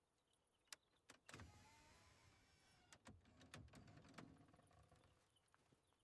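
Near silence, with a few faint scattered clicks and a soft rustling haze that fades out.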